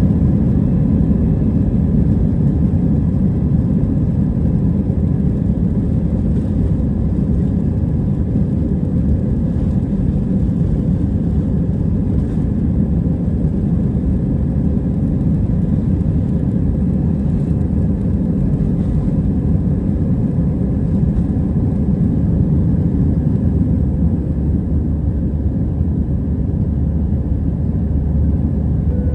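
Steady, loud rumble of an Airbus A320 heard from inside the passenger cabin: engine and airflow noise, with a few faint steady tones above it.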